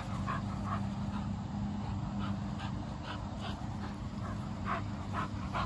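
American Bully puppy making short, soft, irregular sounds, about two or three a second, over a steady low hum.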